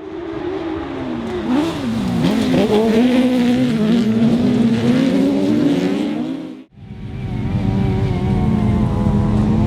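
Autograss race cars' engines running hard, several pitches rising and falling and crossing as the cars accelerate and lift off. It cuts off abruptly about two-thirds of the way through and gives way to engines holding a steadier pitch.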